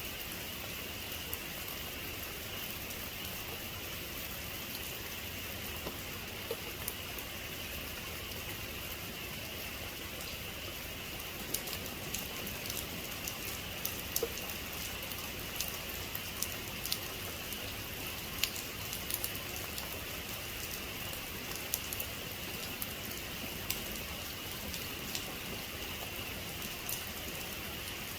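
Heavy rain falling steadily, with scattered sharp ticks of individual drops hitting a surface from about halfway through.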